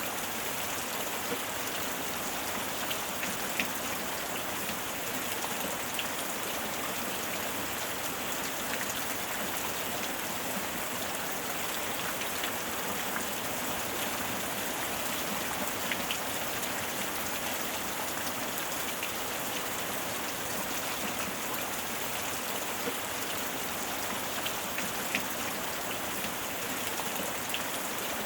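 Steady heavy rain falling, with a constant hiss and scattered sharper drop ticks.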